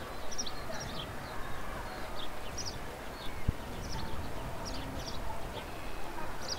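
Small birds chirping, short high calls repeated irregularly, over a steady low rumble of outdoor background noise, with one dull bump about three and a half seconds in.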